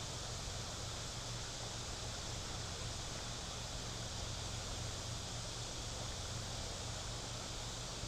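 Steady outdoor background noise: an even hiss with a low hum beneath it and no distinct events.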